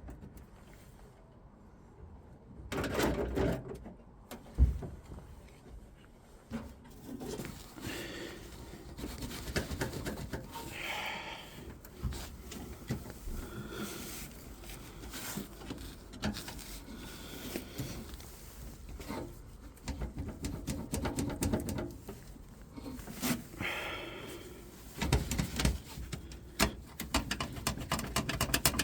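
Irregular knocks, clicks and rustling of hands and tools working on a truck's vacuum pipework, with a sharp knock about four and a half seconds in and a few short squeaks.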